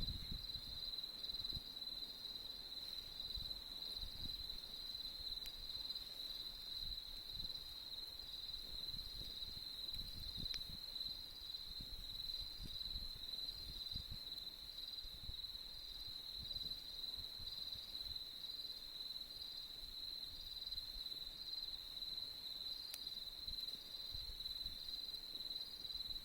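Autumn crickets singing a steady, unbroken high trill, with a fainter pulsing chirp just above it. A couple of faint isolated clicks come about ten seconds in and near the end.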